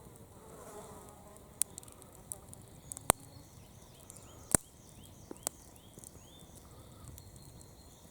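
Campfire crackling: scattered sharp pops of burning wood, the loudest about three and four and a half seconds in. A faint buzz near the start and a run of quick, short chirps in the second half.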